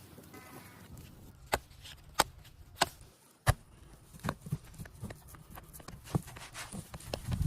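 Knife chopping on a wooden cutting board: four sharp chops about two-thirds of a second apart, then lighter, irregular knocks.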